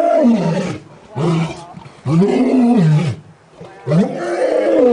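African lion roaring in a bout: a string of long, deep calls that swell and fall in pitch, one after another with short breaths between. One call ends just under a second in, a short one follows, then a longer one, and another starts near the end.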